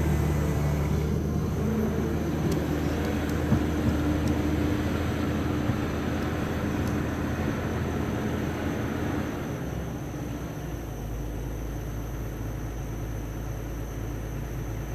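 Caterpillar 320D excavator's Cat ACERT diesel engine running steadily; its engine note fades out at about seven to ten seconds in, leaving a quieter low rumble.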